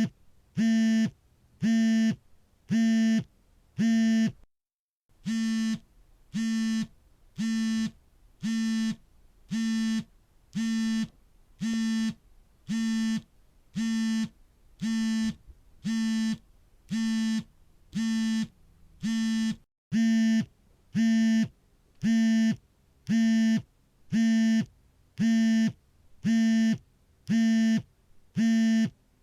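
Smartphone vibrating for an incoming call: a buzz that pulses on and off about once a second, each buzz about half a second long. The pattern breaks off briefly twice, about four seconds in and near the twenty-second mark, then resumes.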